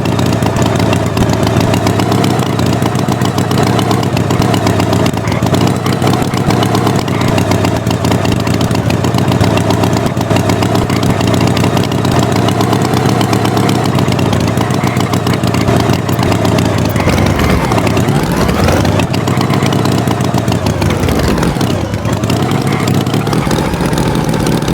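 Tractor engine running steadily, its pitch dipping and climbing twice in the last third as it revs down and up.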